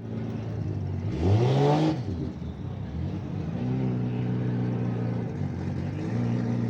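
Car engine revved once, rising in pitch for under a second about a second in, then settling to a steady idle.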